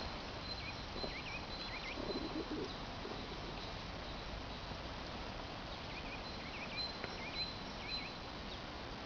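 Small birds chirping, with short quick notes in two spells, one near the start and another about six seconds in. A thin, high, steady tone comes and goes over an even outdoor background noise.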